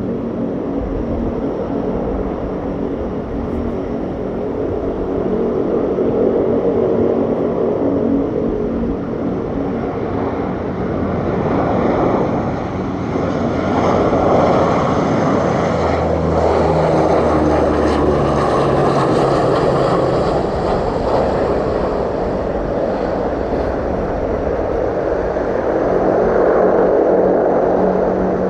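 Aircraft engines running loud and steady as an aircraft moves on or near the runway, the engine tone shifting in pitch about halfway through.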